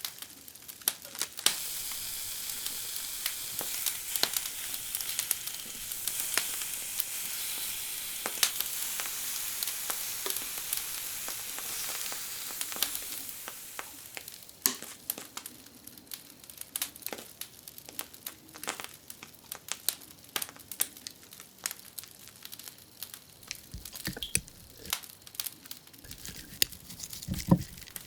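Food frying and sizzling, with many sharp clicks of handling throughout. The sizzle dies away a little before halfway, leaving scattered clicks and crinkling.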